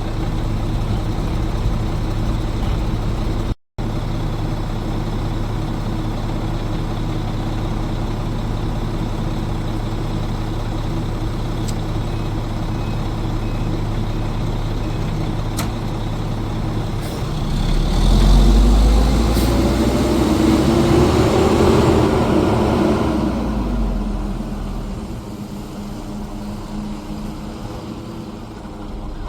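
Heavy garbage truck's diesel engine idling steadily, then revving up and back down for about five seconds.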